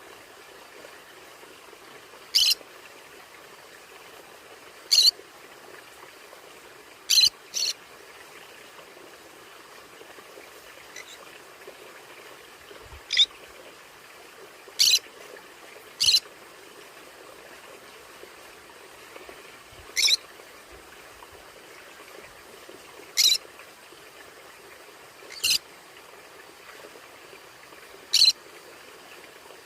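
A conure giving short, sharp, high-pitched calls, about eleven single squawks spaced a few seconds apart, with one quick pair, over a steady low hiss.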